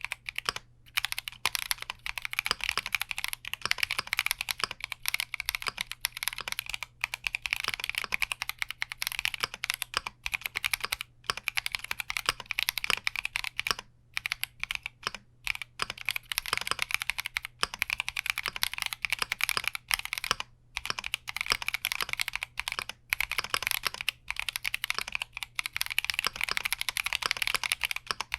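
Fast, continuous typing on a Keychron Q60 mechanical keyboard, keystrokes clattering in quick succession with a few brief pauses.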